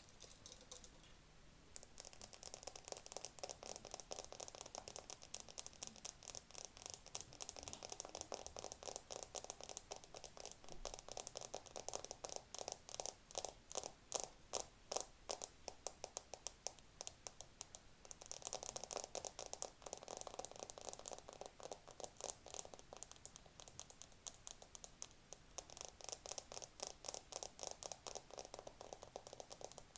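Rapid, continuous fingertip tapping on a camera, starting about two seconds in.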